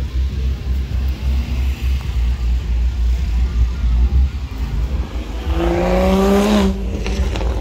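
A car engine revs once about five and a half seconds in, its pitch rising for about a second before it drops away, over a steady low rumble.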